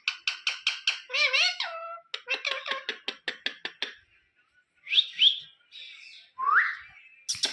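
Pet parrot chattering: quick runs of short clicks and chirps, a few warbling whistled notes, and rising whistles in the second half.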